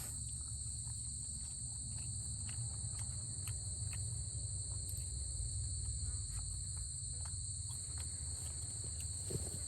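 Steady, high-pitched insect chorus, with scattered faint clicks and a low rumble beneath it.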